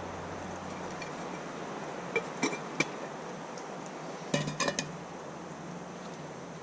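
Light metallic clinks of camp cookware and cutlery: a few single clinks about two to three seconds in and a quick cluster of them a little after the middle, over a steady low hiss.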